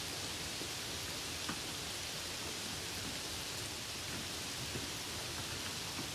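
Steady hiss of rain heard from a car on the move, with a couple of sharper raindrop ticks, one about one and a half seconds in and one near five seconds in.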